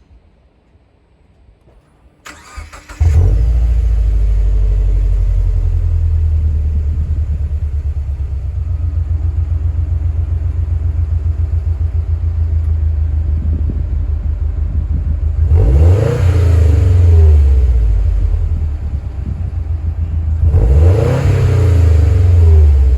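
Subaru Impreza WRX STI's turbocharged EJ25 boxer flat-four, breathing through an STI sport muffler, cranked on the starter and catching about three seconds in, then idling steadily. Near the end the engine is revved twice, each rev rising and falling back to idle over about two seconds.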